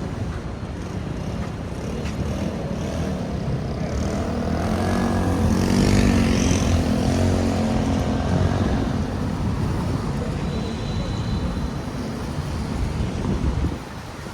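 A motor vehicle driving past on a rain-soaked street, its engine and tyre noise swelling to a peak about six seconds in, dipping in pitch as it goes by, then fading, over a steady hiss of heavy rain. The noise drops off abruptly near the end.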